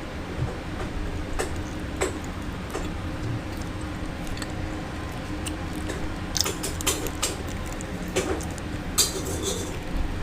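Close-up eating sounds of tupig: scattered mouth clicks and chewing, with two short clusters of crackling about six and a half and nine seconds in, over a steady low hum.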